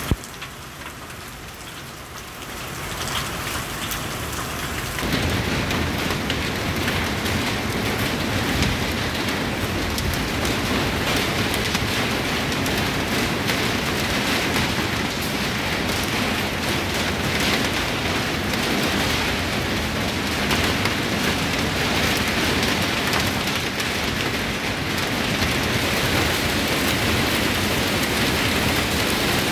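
Heavy rain falling in a steady downpour. It is lighter for the first few seconds, then grows louder and stays steady from about five seconds in.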